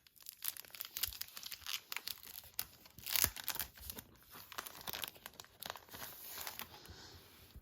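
Packaging crinkling and tearing as a pack of art cards is unwrapped and handled: a busy run of small rustles and clicks, loudest about three seconds in.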